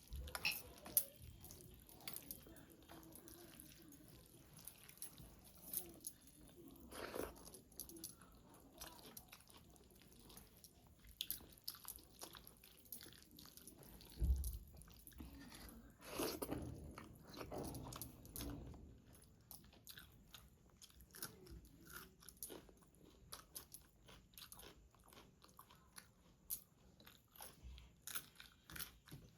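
Close-miked eating sounds of a person chewing rice and chicken curry by mouth, with wet smacking and crunchy bites. The bites come in many short clicks, with a few louder bites and crunches scattered through.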